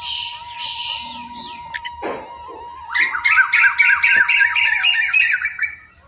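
Bird squawking: two harsh, scratchy calls in the first second. About three seconds in comes a loud, rapid run of chattering calls, which stops shortly before the end.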